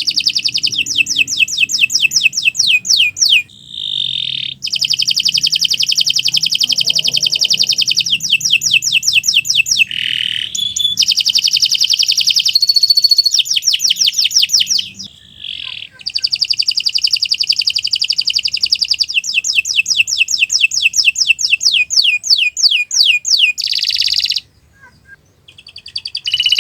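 Domestic canary singing a long, loud song of fast trills and rapidly repeated high notes, broken by a few short pauses.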